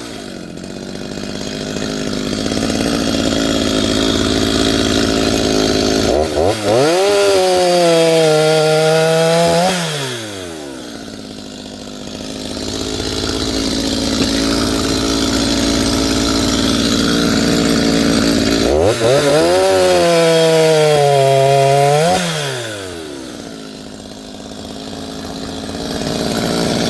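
Gasoline chainsaw running hard and cutting through an oak log. The engine speed swells and falls twice, easing back toward idle about eleven seconds in and again near the end.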